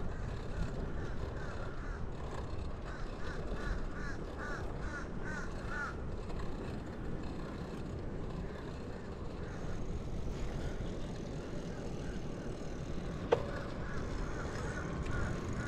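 Steady wind and rolling noise of a bicycle ride, with a bird calling in a quick run of repeated notes, about a dozen a few seconds in and another run near the end. A single sharp click comes late on.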